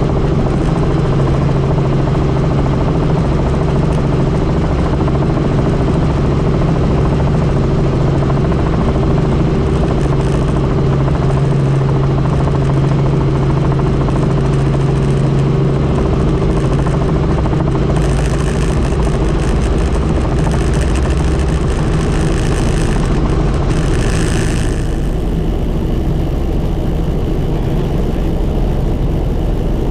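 Helicopter in flight, its engine and rotor making a loud, steady drone with a constant low hum. A hissing rush joins in a little over halfway through and drops away several seconds before the end.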